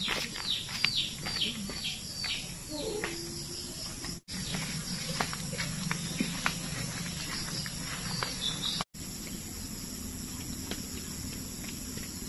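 Outdoor country ambience: a steady high-pitched buzz of insects, with birds giving a quick run of falling chirps in the first two seconds and scattered faint clicks after. The sound cuts out for an instant twice, about four and nine seconds in.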